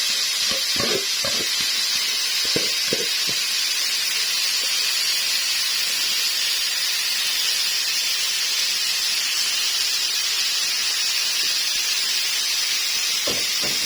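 Chicken pieces sizzling in a hot, lightly oiled pan: a steady, even high hiss. A few soft knocks in the first few seconds and again near the end.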